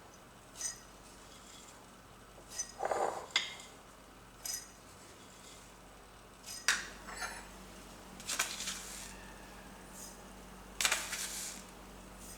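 Kitchen dishes and utensils clinking and knocking at irregular moments, with two longer scraping or rustling sounds about eight and a half and eleven seconds in.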